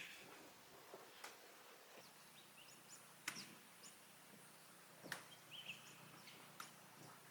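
Quiet campfire crackling: a few sharp, irregular pops and clicks over a near-silent background.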